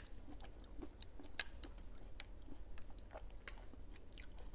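A person chewing soft, wet fruit close to the microphone: irregular small smacks and clicks of the mouth.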